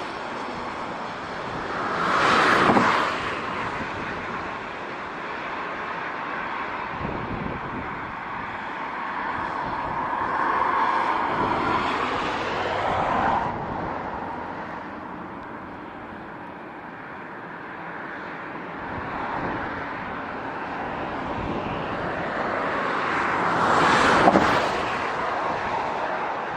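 Jet engine noise from a Boeing 737-800's CFM56 engines during takeoff, with wind on the microphone. The noise swells with a droning tone and drops off abruptly about halfway through. Two short, loud passing whooshes come about two seconds in and near the end.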